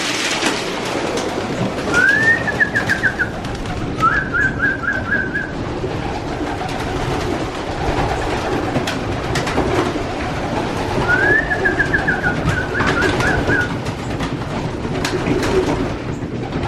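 Racing pigeons cooing together in a loft, a steady low murmur. Three times a higher chirping phrase cuts through, a quick rising note followed by a fast run of short notes, with scattered light taps among the birds.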